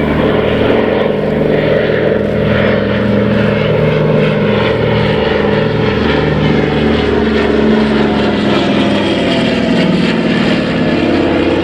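Douglas C-47 Dakota's twin Pratt & Whitney R-1830 radial piston engines droning as the aircraft flies its display, a steady propeller drone whose pitch shifts slightly in the second half.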